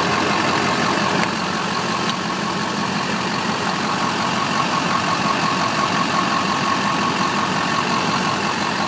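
Duramax 6.6-litre turbo-diesel V8 idling steadily.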